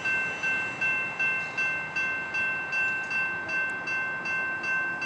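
Railroad grade-crossing bell ringing steadily, an even metallic ding repeating about two and a half times a second.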